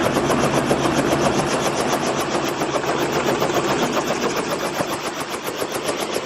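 Tour helicopter running on the ground with its rotor turning: a steady, rapid, even chop over loud engine noise.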